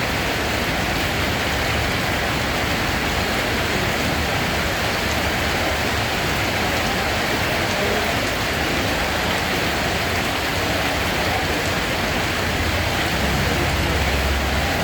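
Steady rain falling, an even, unbroken hiss of water with a low rumble underneath.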